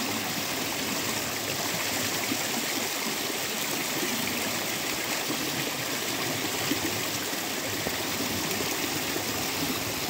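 Steady rushing of flowing stream water by a waterfall.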